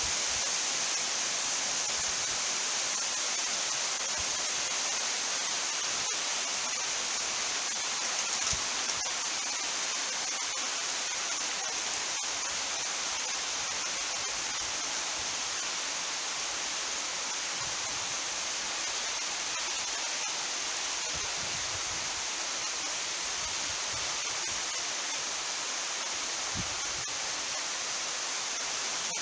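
Heavy downpour of rain, a steady even hiss with a few faint knocks.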